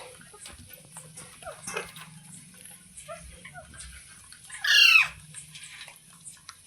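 A parrot giving one loud, harsh squawk about five seconds in that sweeps down in pitch, amid softer scattered chirps and clicks.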